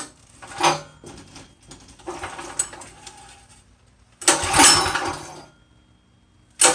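Small go-kart engine being pull-started by its recoil starter: several pulls, each a second or so of cranking rasp, the last two loudest, with a gritty grinding from the torque converter as it turns. The engine doesn't catch, because the kill switch was left in the off position.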